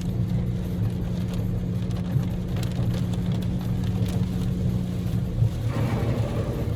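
Cabin sound of a Daihatsu Move's 660 cc three-cylinder EF-VE engine droning steadily while driving, over road and rain noise with scattered drops hitting the car. A little before the end the engine note shifts, and there is one louder knock about five and a half seconds in.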